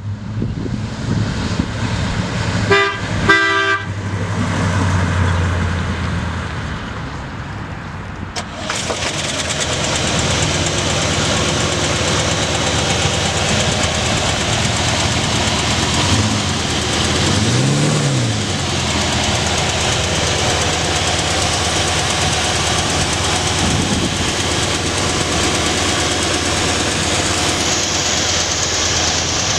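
1962 Oldsmobile Starfire's 394 V8 running, with the car horn sounded in short honks about three seconds in. From about eight seconds in the running grows louder and steadier, with a brief rev up and back down midway.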